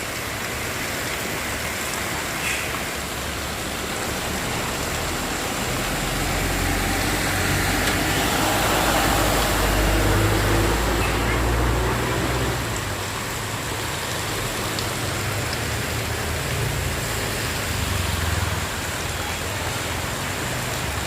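Steady hiss of heavy rain, with a motor vehicle passing about a third of the way in: its engine rises to the loudest point near the middle, then fades back into the rain.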